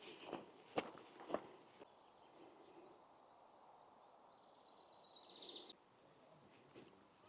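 Footsteps crunching on a gravel path, a few steps about half a second apart, then quiet outdoor ambience. About four seconds in, a small bird gives a fast trill of high notes that grows louder and stops suddenly.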